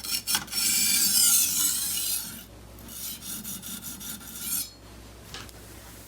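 Chef's knife edge scraping across a coarse Washita natural whetstone: two quick short strokes, then two long sharpening passes of about two seconds each, and a light click near the end. This is the first, coarsest stage of the sharpening, raising a burr on the edge.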